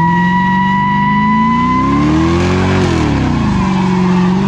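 Car engine held at high revs while doing donuts: its pitch climbs, drops back about three seconds in, then climbs again near the end. A steady high-pitched tire squeal sounds over the first two seconds.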